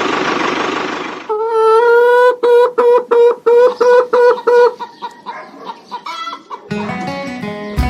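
Steady noisy motor sound that cuts off about a second in. Then a quick run of short, repeated, high-pitched clucks, about three a second, fading after the middle. Background music with a bass line starts near the end.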